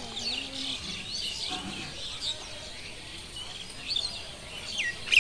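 Small birds chirping and twittering repeatedly in the background.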